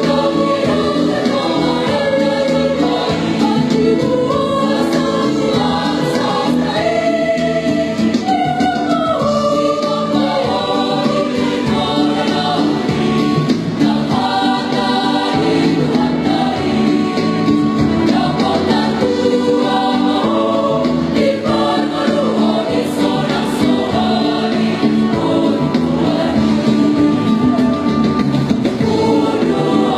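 Choir singing a song, several voices together without a break.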